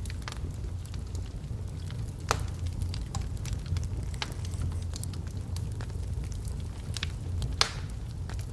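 Wood logs burning in a fireplace, crackling with scattered sharp pops over a steady low rumble of the flames. Two louder pops, one a little over two seconds in and one near the end.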